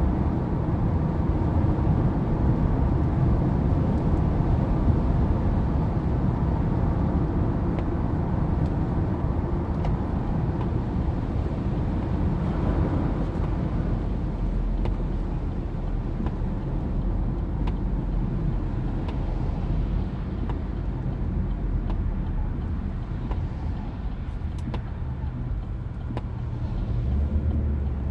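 A motor vehicle's steady low rumble, running continuously, a little quieter in the second half.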